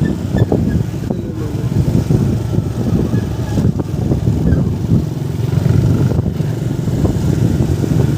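Motorcycle engines running amid street traffic, a loud, continuous low rumble.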